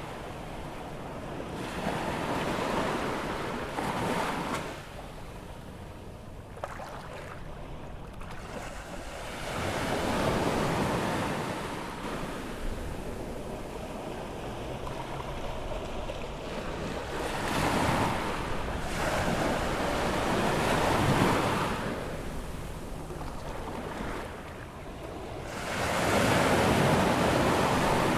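Atlantic surf on an incoming tide: waves breaking and washing up the beach in slow surges every several seconds, the loudest near the end, with some wind on the microphone.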